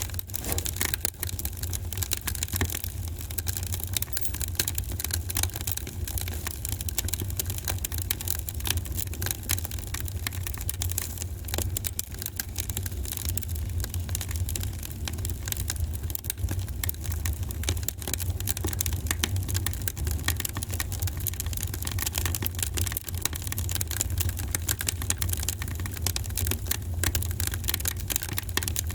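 Wood fire burning in a fireplace, crackling with many small irregular pops over a steady low rumble.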